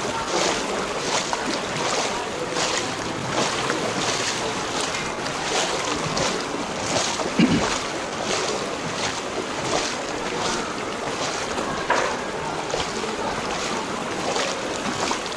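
Footsteps wading through shallow floodwater: a slosh about twice a second over a steady wash of water noise, with one dull thump about seven seconds in.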